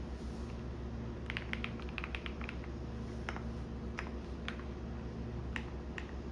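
Computer keyboard typing: a quick run of keystrokes about a second in, then single keystrokes spaced out, over the steady low hum of a washing machine running.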